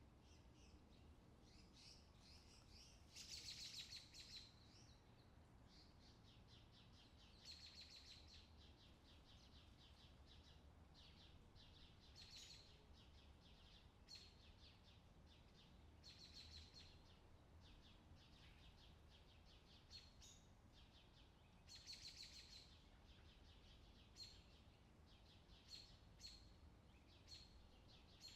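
Faint outdoor summer ambience with birds: scattered short chirps and a couple of louder trills, about three seconds in and again past the twenty-second mark, over a low steady background rumble.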